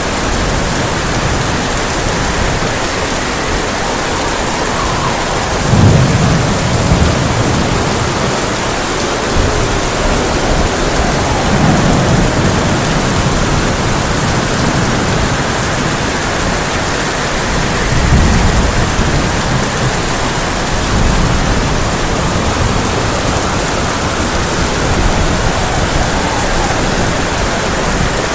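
Heavy rain drumming steadily on a tin roof, with thunder rumbling in low swells about six, twelve and eighteen seconds in, the first of them the loudest.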